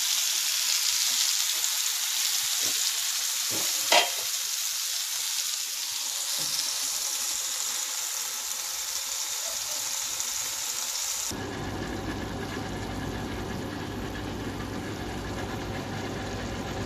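Chicken sizzling on a covered tawa over low-medium heat, a steady hiss, with one sharp knock about four seconds in. About eleven seconds in the sound changes abruptly to a duller, lower steady noise with a faint hum.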